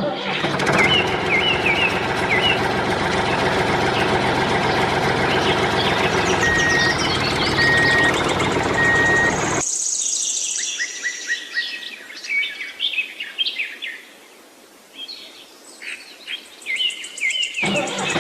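Birds chirping and tweeting over a steady mechanical hum. The hum cuts off about halfway through, leaving only the birdsong, and comes back just before the end.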